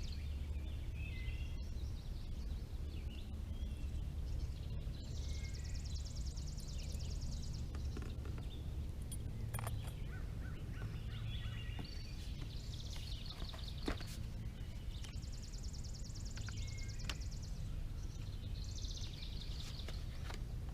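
Outdoor background with a steady low rumble, a bird's high rapid trills coming back every several seconds, and a few faint clicks.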